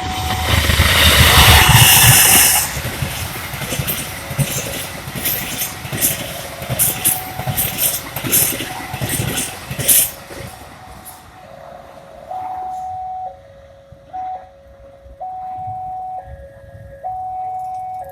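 Passenger train passing at speed: a loud rush of wheels and rolling stock for the first few seconds, then a run of sharp wheel clicks over the rail joints that fades out about 11 s in. After that a level crossing's electronic warning alarm sounds, switching back and forth between two pitches.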